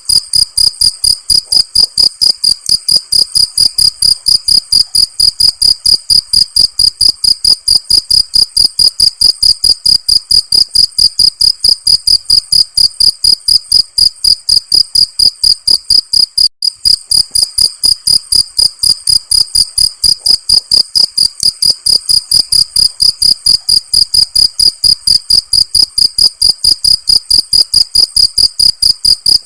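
Cricket chirping loudly in a fast, even pulse of about four to five chirps a second, with a brief break about sixteen seconds in.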